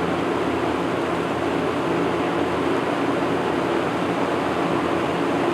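1980s Lakewood second-generation box fan running on high speed: a steady rush of moving air with a low, even motor hum.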